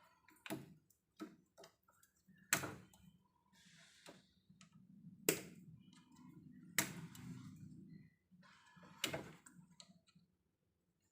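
A few sharp clicks and knocks, about five of them spread a second or two apart, with a faint low hum in the middle: handling noises from electrical repair work on a distribution panel.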